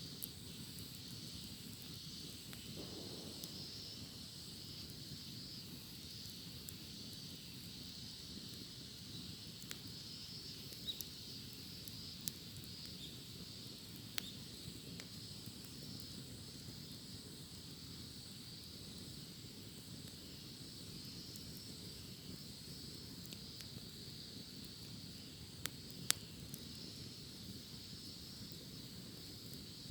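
Cicadas droning steadily in a chorus, with a low hiss from a campfire beneath and occasional sharp pops and crackles of burning wood.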